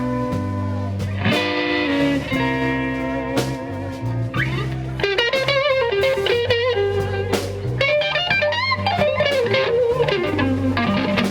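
Slow electric blues played by a band: electric guitar playing a lead line over bass and drums. Long held notes give way, about five seconds in, to bent notes with heavy vibrato.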